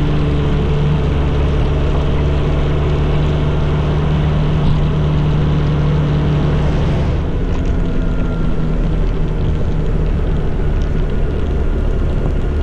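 Motorcycle engine running steadily while riding at road speed, with rushing wind noise. The engine note shifts about seven seconds in.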